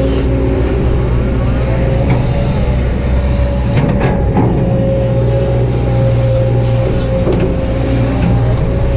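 Kobelco SK200-8 hydraulic excavator's diesel engine running steadily, with a steady hydraulic whine and a couple of short knocks about four seconds in.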